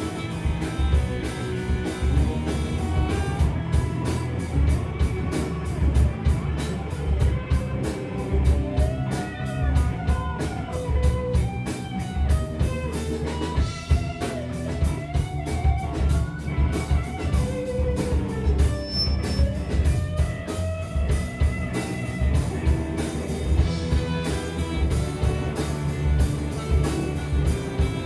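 Trombone band playing an instrumental heavy-metal cover over fast, driving drums. A melodic lead line with sliding pitch bends comes in the middle.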